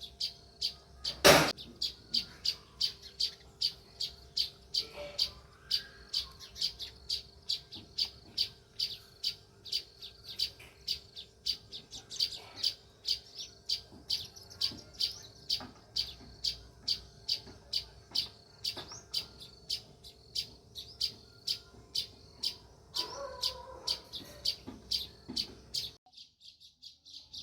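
House sparrow chirping over and over in an even run, about three chirps a second, with one sharp click about a second in.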